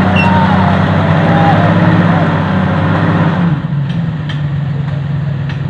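Off-road 4x4's engine running hard under load as the vehicle churns through deep mud, then the revs drop about three and a half seconds in and it settles to a quieter, steady note. Faint voices in the background.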